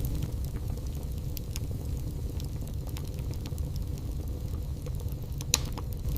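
Wood fire burning in a fireplace: a steady low rumble with scattered crackles and one louder pop near the end.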